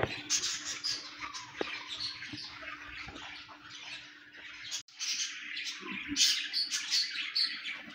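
Birds chirping and squawking in short, scattered calls over a faint low steady hum, cut off briefly near the middle.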